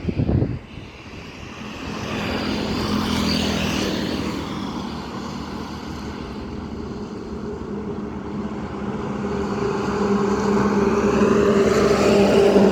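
Truck diesel engines running as trucks drive past, the engine drone swelling louder toward the end as one comes close. A brief loud burst of noise right at the start.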